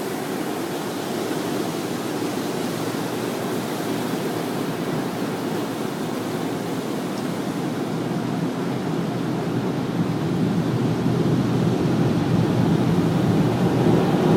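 An automatic car wash working over the car, heard from inside the cabin: a steady rushing noise that grows gradually louder toward the end.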